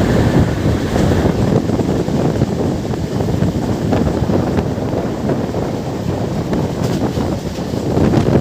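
Moving passenger train: a steady rumble and rush of running noise, with wind buffeting the microphone.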